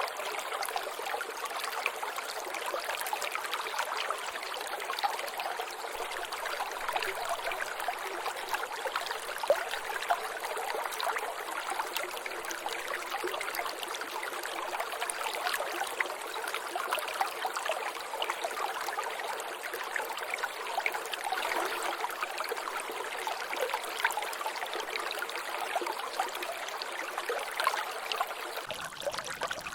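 Water trickling and dripping in a small natural drainage channel: a steady wash of running water with many small drops splashing. Near the end the sound turns fuller and deeper.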